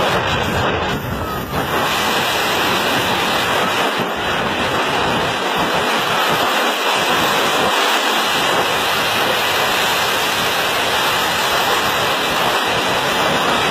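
Steady rush of wind buffeting the microphone, mixed with road and engine noise from a vehicle travelling at speed.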